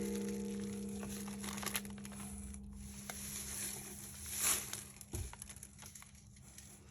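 Plastic snack wrappers crinkling as items are handled, over a low ringing tone that fades slowly, left by something struck just before. A soft thump about five seconds in.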